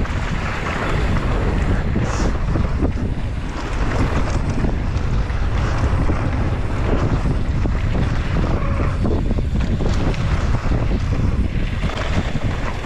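Wind buffeting the microphone during a fast mountain bike descent, steady throughout, with many short knocks and rattles from the bike running over the trail.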